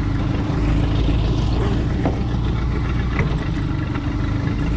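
Boat motor running steadily, moving the boat along the water.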